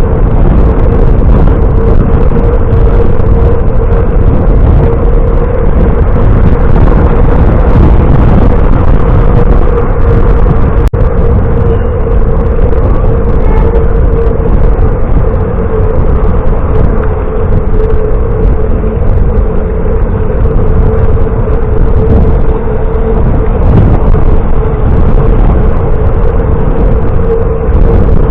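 Steady wind and road noise from a bicycle ride at speed, with a steady mid-pitched hum over it.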